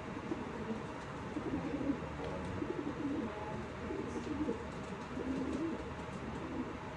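Domestic pigeons cooing: low, warbling coos repeating on and off.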